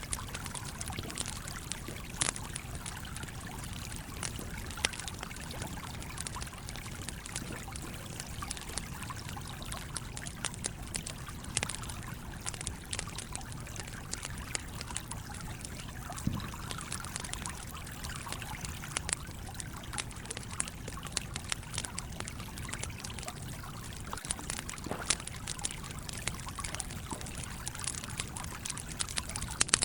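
A stream flowing steadily, with the scattered sharp pops and crackles of a campfire.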